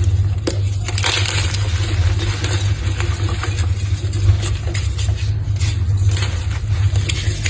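Blocks of gym chalk being crushed and crumbled, with irregular crunching and crackling, over a steady low hum.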